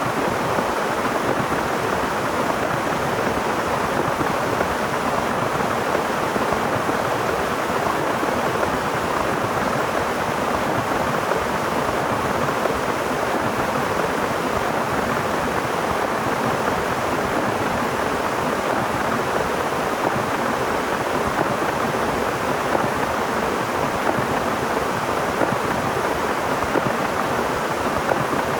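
Heavy rain falling: a steady, even hiss with no let-up.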